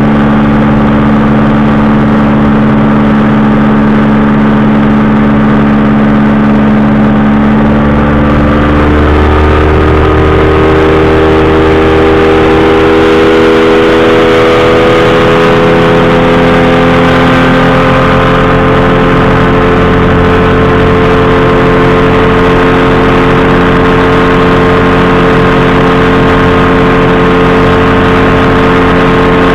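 Powered parachute's engine and propeller running loud and steady. About nine seconds in the engine speed picks up, and the pitch keeps rising slowly for several more seconds before holding steady.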